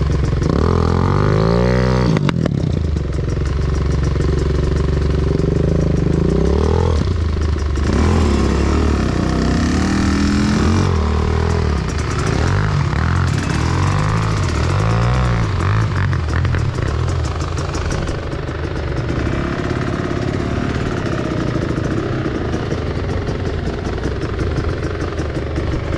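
Enduro motorcycle engine riding off-road, the throttle opened and closed over and over so the revs rise and fall every second or two.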